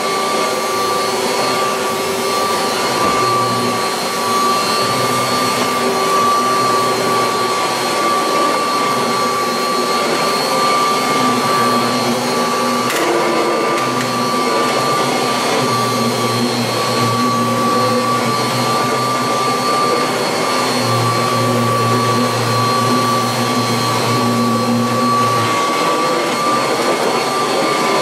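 1986 Kirby Heritage 2 vacuum cleaner running steadily with a high, even whine and a lower hum that comes and goes.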